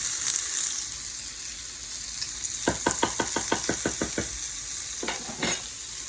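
Salmon and onions sizzling steadily in a frying pan. Partway through comes a quick run of about ten sharp taps, and near the end a couple of knocks.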